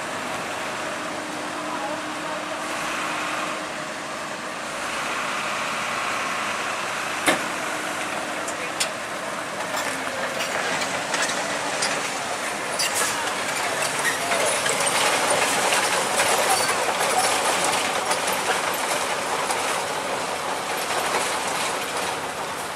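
Engine of heavy recovery machinery running steadily under people's voices, growing somewhat louder through the middle, with a single sharp knock about seven seconds in.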